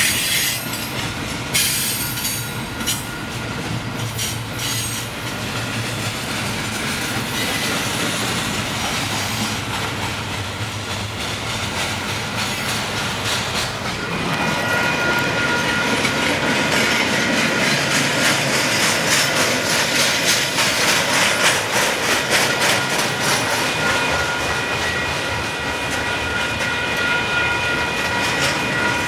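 Union Pacific double-stack container freight train rolling past, its wheels clacking and rumbling over the rails. About halfway through it gets louder and a steady high-pitched ringing joins in.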